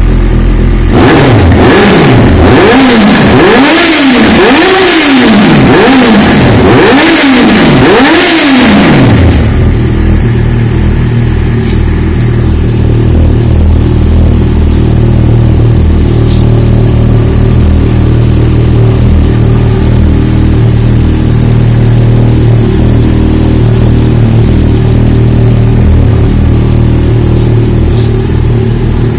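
Yamaha XJ6 Diversion's 600 cc inline-four breathing through an Akrapovic exhaust, blipped about six times in quick succession, each rev rising and falling. It then settles to a steady idle for the rest of the time.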